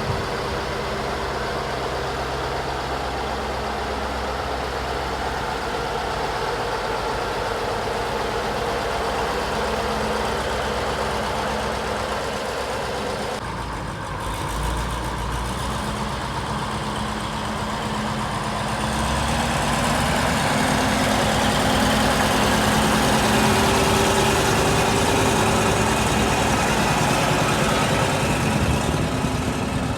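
Diesel engine of a modernized T-150K wheeled tractor running steadily. The sound changes abruptly a little before halfway, then gets louder and slightly higher in pitch as engine speed rises.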